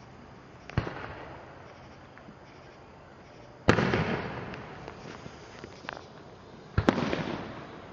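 Aerial firework shells bursting overhead: three booms about three seconds apart, the middle one loudest, each fading out over a second or so, with a couple of small crackles in between.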